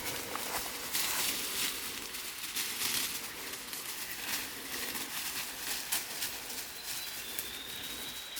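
Footsteps crunching and rustling along a wet woodland trail. Near the end a bird gives one thin, high, drawn-out whistle.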